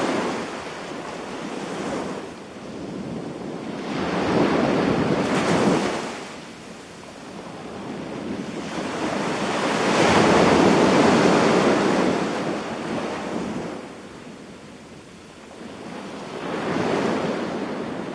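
Sea waves breaking and washing up a sandy beach, swelling and fading in three slow surges about six seconds apart.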